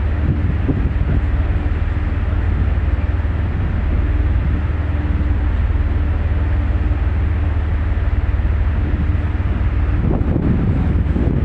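Steady low rumble and drone of a ferry's engines, with a faint steady hum over it.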